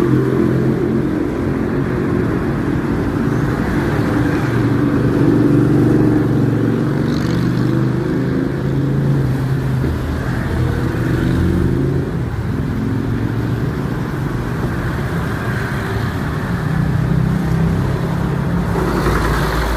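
Steady road traffic, with engines running and vehicles passing.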